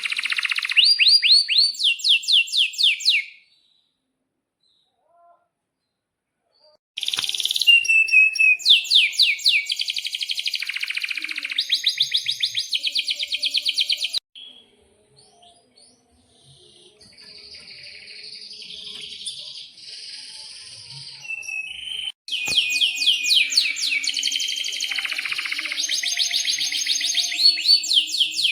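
Domestic canary singing long phrases of rapid, rolling trills of high notes. The song stops for a few seconds early on, goes softer and quieter through the middle, then comes back loud, starting and stopping abruptly.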